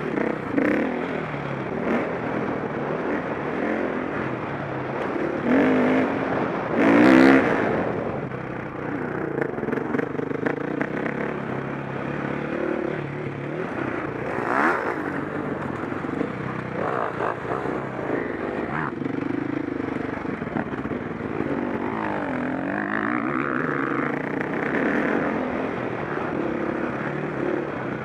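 KTM 525 SX four-stroke single-cylinder dirt bike engine running hard, its pitch rising and falling as the throttle opens and closes. A loud burst of noise comes about seven seconds in.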